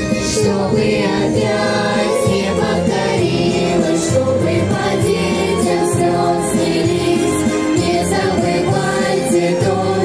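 A children's vocal group singing a song together over a backing track with a steady beat.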